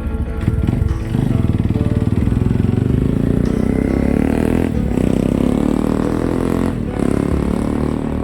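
Kawasaki KLX 230 dirt bike's single-cylinder engine running under throttle while riding. The engine sound drops out briefly twice, about five and seven seconds in.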